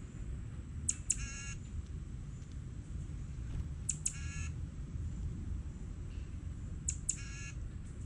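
A bird giving a short harsh call three times, about three seconds apart, over a steady low rumble.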